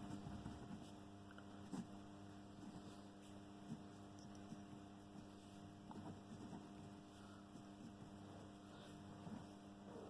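Near silence: a steady electrical mains hum, with a few faint ticks.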